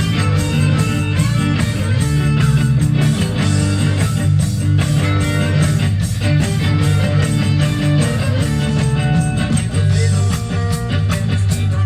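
Live ska-reggae band playing without vocals: a heavy bassline, guitar and a steady drum beat.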